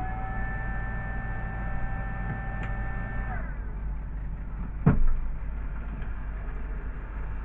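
CNC milling machine motor whine: having just ramped up, it holds a steady pitch for about three seconds, then winds down and stops, over a steady low hum. A single sharp knock follows about five seconds in.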